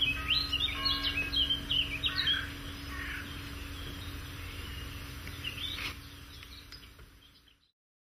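Small birds singing and chirping, a dense run of quick notes for the first two seconds or so, then scattered calls, over a steady low hum. All of it fades out shortly before the end.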